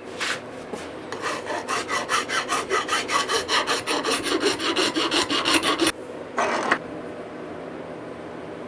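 Rasping hand strokes against the hatchet, filing or abrading it: one short stroke, then a steady run of back-and-forth strokes, about four a second, for some five seconds, and one last stroke.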